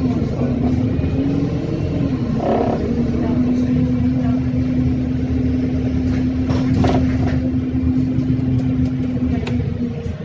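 Bus engine and road rumble: a steady, even hum over a low drone as the bus drives, with a short knock about seven seconds in.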